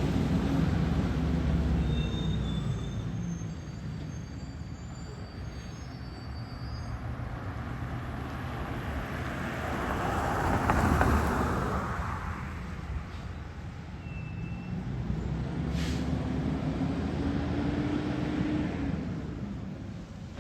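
Garbage truck engine, its pitch falling as it settles in the first few seconds and rising again as it revs up in the last third. A rushing noise swells to the loudest point about halfway through and fades.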